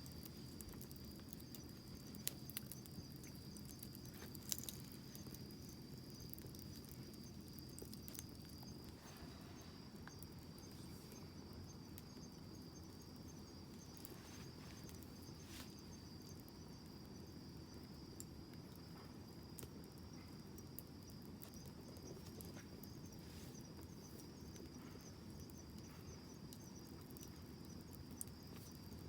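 Wood fire burning quietly: a low, even hiss with sparse crackles and small pops, a few sharper pops in the first five seconds. A steady high insect trill runs behind it.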